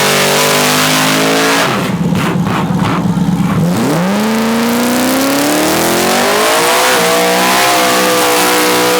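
Drag-racing truck engine at full throttle on a pass. Its pitch climbs, drops away about a second and a half in, runs rougher and steadier for a couple of seconds, then sweeps up again from low and keeps climbing before levelling off near the end.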